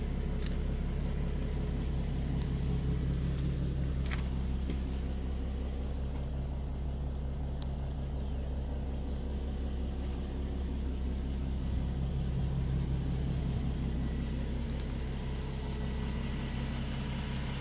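Nissan 370Z's 3.7-litre V6 idling steadily, a low even hum, with a few faint clicks over it.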